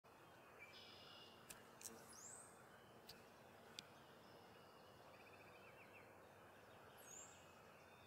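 Faint bird calls in quiet woodland: a few high chirps and a quick trill about five seconds in, with several sharp ticks scattered through, over a low steady hiss.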